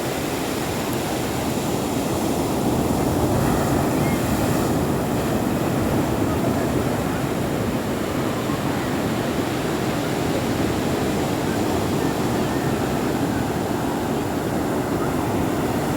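Ocean surf washing onto a beach: a steady, continuous rush of waves.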